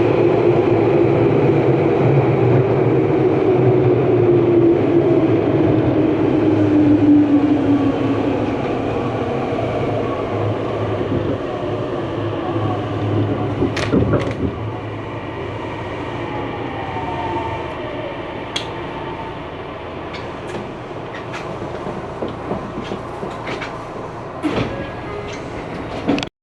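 Tokyu Ikegami Line electric train running past on the rails, its motor whine falling in pitch over the first several seconds while the rumble fades away. A few sharp clicks from the wheels and track come later.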